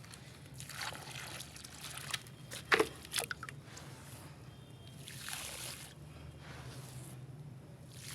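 Wet paste sloshing and trickling in a container in a few soft spells, with two sharp knocks a little under three seconds in.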